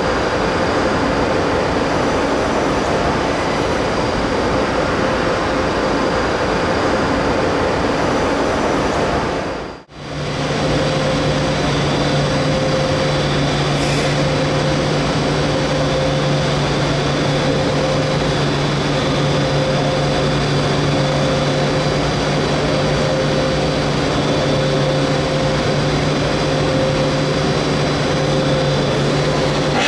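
Passenger train running through the station: a steady rumble with a few held tones. It breaks off briefly about ten seconds in, and after that a steady low hum runs under the rumble.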